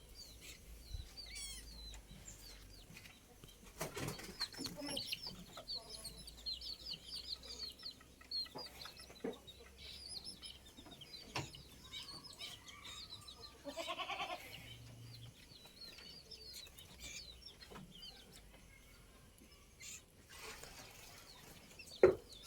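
Birds chirping in quick runs of short high notes, with a chicken clucking about 14 seconds in. A single sharp knock near the end is the loudest sound.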